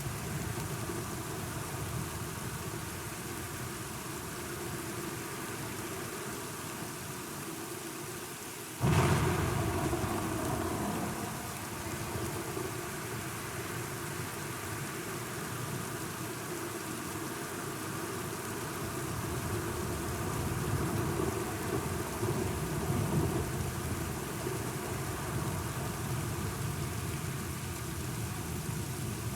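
Steady rain falling, with a sudden loud clap of thunder about nine seconds in that rumbles away over a couple of seconds.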